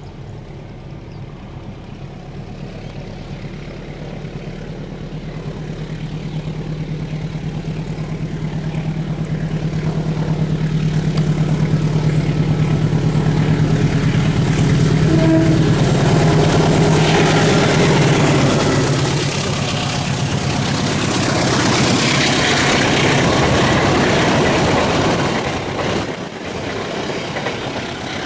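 Diesel-hauled passenger train approaching and passing. The locomotive's engine drone grows steadily louder and drops in pitch as it goes by, about 18 seconds in. The rushing rattle of the carriages follows and cuts down suddenly near the end.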